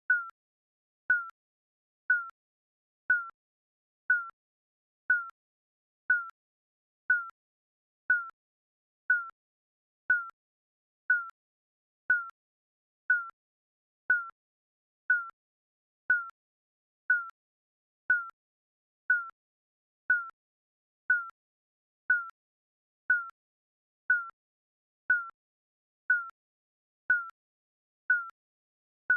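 Short electronic countdown-timer beep repeating exactly once a second, each a brief blip that dies away at once, with silence between beeps.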